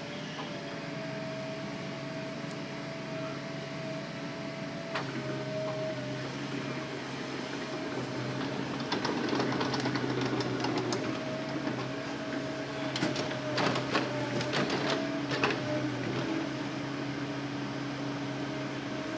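Hitachi Zaxis excavator's diesel engine and hydraulics running steadily with a steady whine. Two bursts of clattering knocks come about nine and thirteen seconds in.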